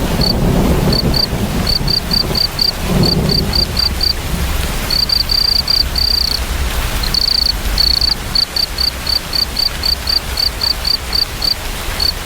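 A cricket chirping steadily, about four short high chirps a second, running into longer trills about five and seven seconds in, over a steady hiss of heavy rain. Low rumbles of thunder swell near the start and again about three seconds in.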